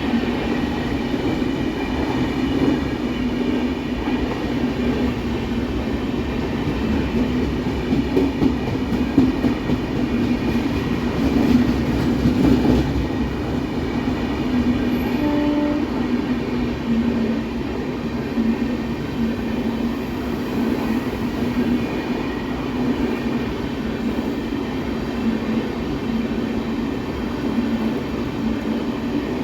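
Express passenger train running on the track at speed: a steady, continuous rumble of wheels on rails.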